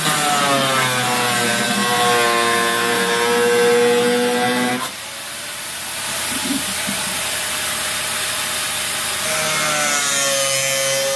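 A small power tool running under load, most likely cutting or drilling the plastic of the container. Its steady whine sags slightly in pitch as it bites, stops about halfway through, and starts again near the end.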